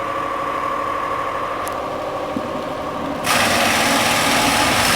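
Renault Clio 1.0 16v engine idling steadily, hot, during a cooling-system flush. About three seconds in, a loud rushing hiss starts suddenly and keeps going.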